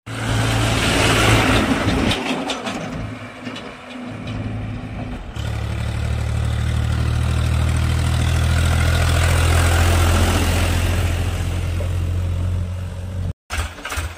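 Diesel tractor engine running steadily. About five seconds in the sound changes abruptly to a louder, steadier engine note, and it cuts out briefly near the end.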